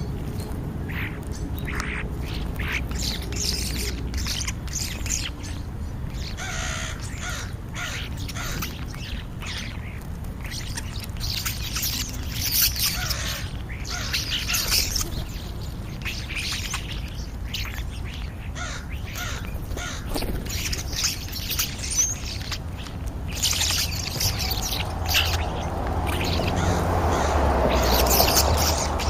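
American crows cawing and other birds calling in short, scattered bursts over a steady low rumble, which swells louder near the end.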